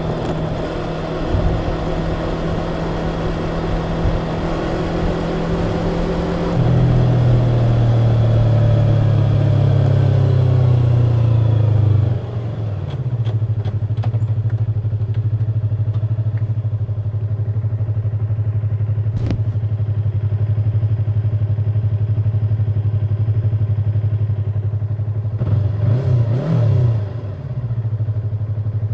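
Yamaha YZF-R25's 249 cc parallel-twin engine through its stock exhaust, running steadily and then slowing, with the note falling away about a third of the way in and settling to a steady low hum. A single sharp click about two-thirds of the way through, and a brief rise and fall in pitch near the end.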